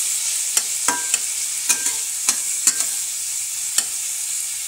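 Chopped onion and carrot sizzling in hot oil in a stainless steel kadhai while being sautéed, with a spatula scraping and knocking against the pan in irregular clicks as it stirs.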